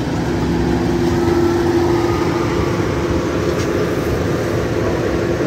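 Toyota RAV4 SUV creeping slowly forward on a dirt road, its engine running with a steady hum.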